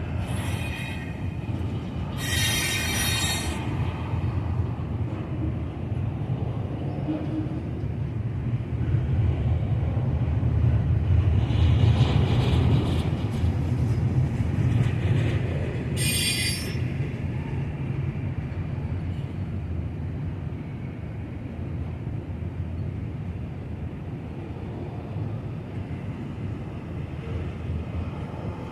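Container freight train rolling past: a steady low rumble of cars and wheels on the rails, with short high wheel squeals three times.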